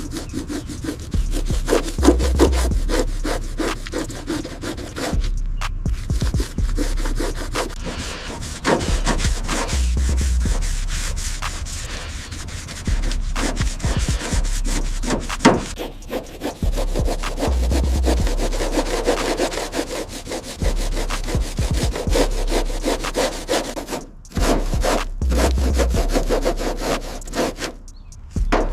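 Continuous rapid rubbing and scraping strokes against a surface, with a low hum that swells about every eight seconds.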